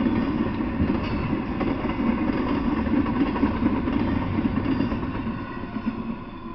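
Double-stack intermodal freight train's steel wheels running on the rails as the well cars roll past, a steady rolling noise that fades away as the last car passes near the end.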